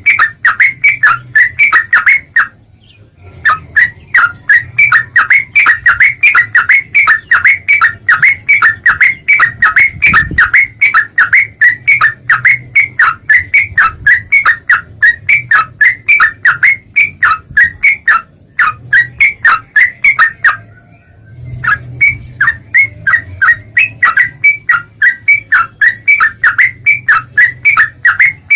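Yellow-vented bulbul (trucuk) calling in a fast, loud run of short, sharp chattering notes, several a second, with brief breaks about three seconds in and again around eighteen and twenty-one seconds in.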